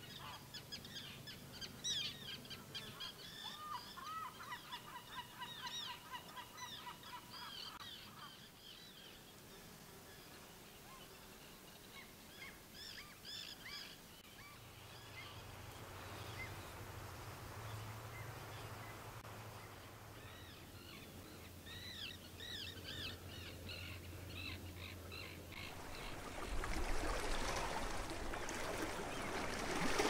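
Birds calling: a rapid run of repeated honking calls for several seconds, then scattered chirps over a low steady hum. A louder rushing noise comes in near the end.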